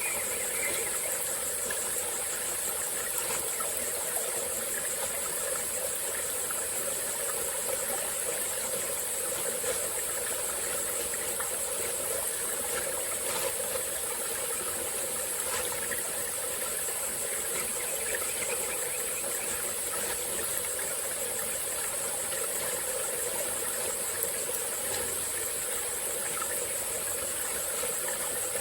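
Small tropical-forest stream flowing steadily, with a continuous high-pitched insect drone over it.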